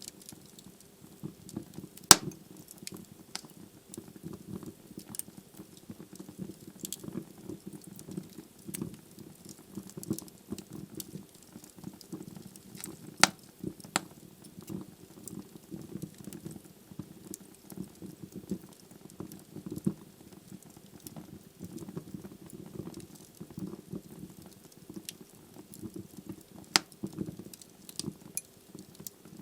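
Wood fire burning in a fireplace: logs crackling with a steady low flutter of flame and many small sharp clicks. Louder single pops come about two seconds in, near the middle and near the end.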